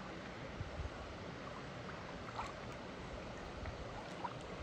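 Steady rush of a creek's running water, with irregular low rumbling on the phone's microphone and a few faint ticks.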